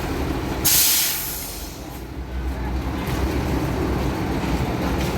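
Heavy truck's diesel engine running, with a sudden loud hiss of released compressed air about a second in that fades away over about a second, typical of a truck's air brakes.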